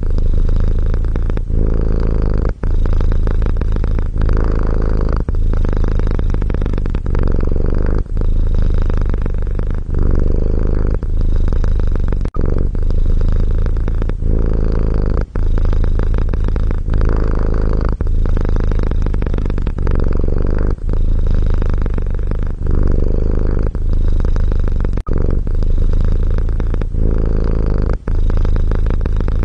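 Domestic cat purring close up: a steady low rumble that breaks off briefly about every second and a half.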